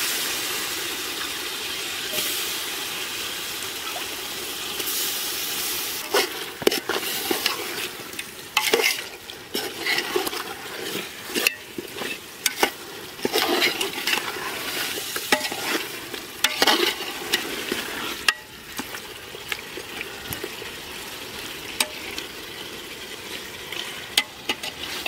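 Fish pieces sizzling in hot onion-tomato masala in a metal pot, a steady hiss for the first few seconds. Then a metal ladle stirs the curry, with repeated short clinks and scrapes against the pot.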